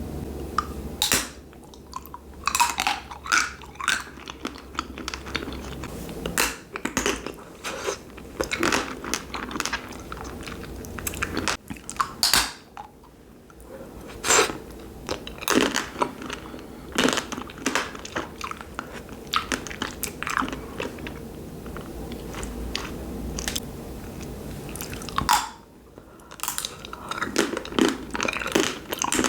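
Frozen wax candy being bitten and chewed close to the microphone: a run of irregular sharp crunches and cracks with chewing between, pausing briefly twice.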